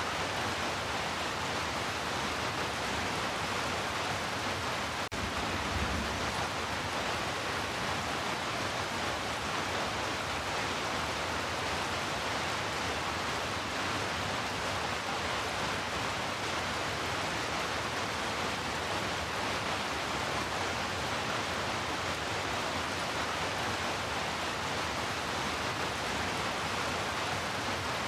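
Heavy rain falling steadily, an even unbroken hiss with no let-up.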